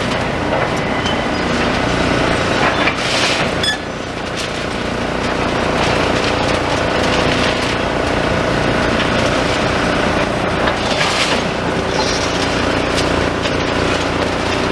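Demolition machinery working: a heavy diesel engine running steadily, with short bursts of clatter and scraping from debris about three seconds in and again about eleven seconds in.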